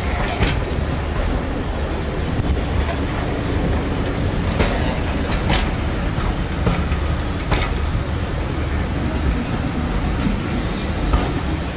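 Railway train running along the track: a steady rumble of wheels on rail, with a few sharp clicks as wheels pass over rail joints.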